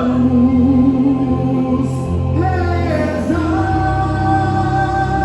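A song: a singing voice holding long, drawn-out notes over a steady instrumental accompaniment.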